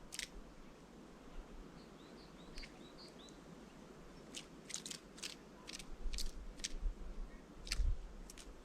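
Small birds at a feeder: scattered sharp clicks of beaks pecking and cracking seeds, bunched in the second half, with a few soft high chirps a few seconds in.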